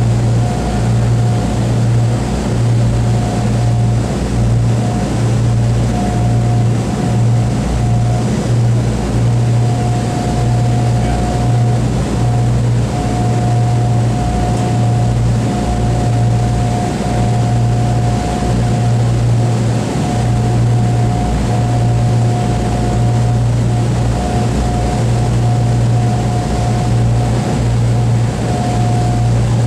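Boeing B-29's four radial piston engines running steadily: a constant deep drone with a steady higher tone over it.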